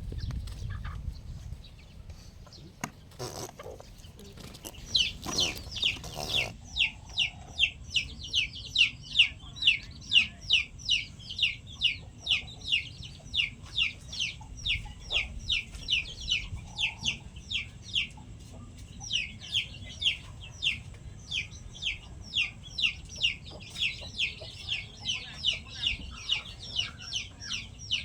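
A chick peeping over and over, about two short, high, falling peeps a second, starting about five seconds in. A few sharp knocks come just before the peeping starts.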